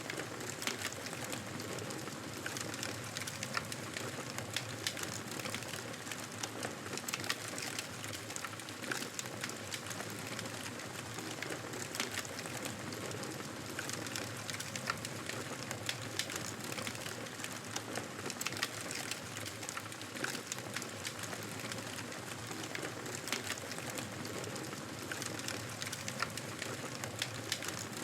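Wood campfire burning: a steady hiss with frequent sharp crackles and pops at irregular intervals.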